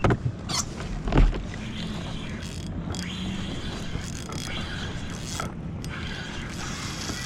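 A few sharp knocks and creaks on the fishing kayak in the first second and a half, then steady wind and water noise.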